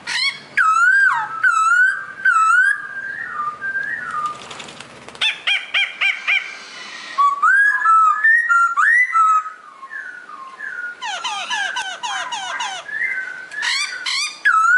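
A songbird singing a varied, loud song of swooping whistled phrases, broken by quick runs of short repeated notes around the middle and again near the end.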